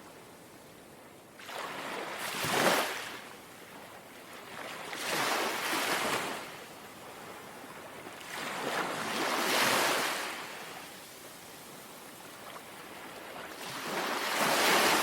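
Gentle sea waves lapping, four small washes of surf swelling and fading about every four seconds.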